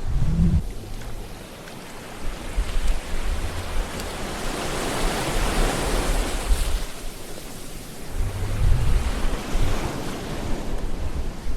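Ocean waves breaking and washing in: a surge of surf hiss builds to a peak about halfway through and then draws back, with low rumbles beneath it near the start and again later on.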